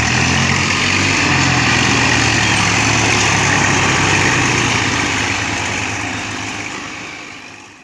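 Tractor diesel engine running steadily, fading out near the end.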